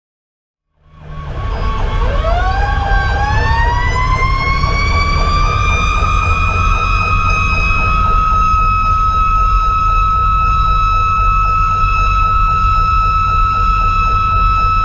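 Federal Q2B mechanical siren winding up, its pitch rising over several seconds and then holding a steady high wail, with an electronic siren warbling rapidly underneath. Beneath both is the heavy low rumble of the fire engine underway. The sound starts abruptly about a second in.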